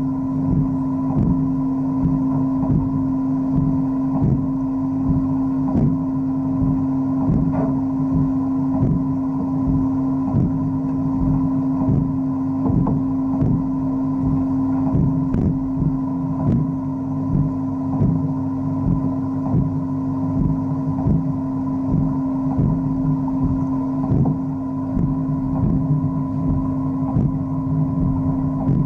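Wet-blasting (aquablasting) machine running: a steady motor hum with a light knock repeating about once or twice a second.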